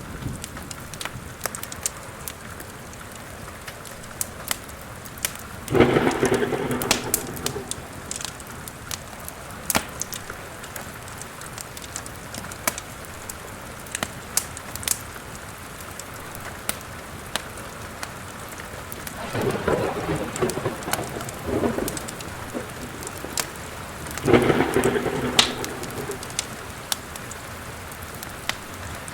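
Steady rain with the sharp pops and crackles of a wood fire in a fireplace. Thunder rumbles three times: about six seconds in, again around twenty seconds, and once more near the end.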